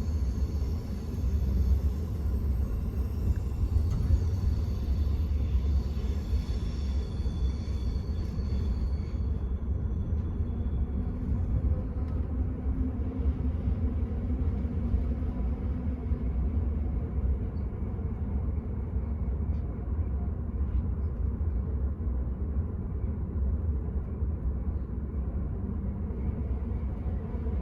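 Enterprise passenger train running, heard from inside the carriage: a steady low rumble. Faint high whining tones die away about eight seconds in.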